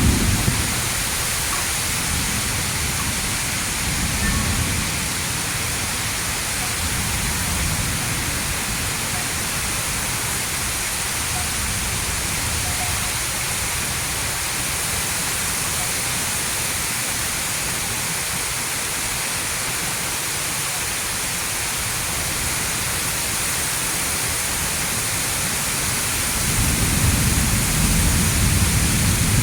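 Heavy rain falling steadily in a thunderstorm, an even hiss. A low rumble swells briefly near the start and again a few seconds in, and a louder rumble builds near the end.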